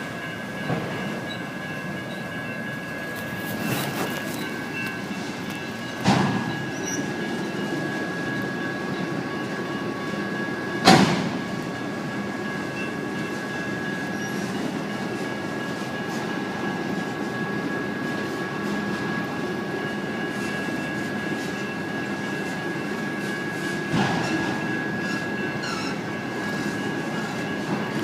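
Freight train of autorack cars rolling steadily through a grade crossing: continuous rumble and clatter of wheels on rail, with a steady high tone running under it. Sharp metallic bangs sound about 6, 11 and 24 seconds in, the loudest at about 11 seconds.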